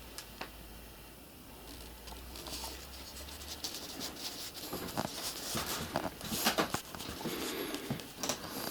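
Hand work on a car headliner panel: irregular small clicks, scrapes and rustles, sparse at first and busier and louder from about halfway.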